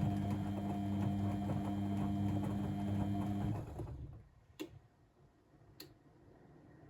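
Blomberg WAF 7442 SL washing machine humming steadily, then its motor stops about three and a half seconds in and winds down. Two sharp clicks follow about a second apart.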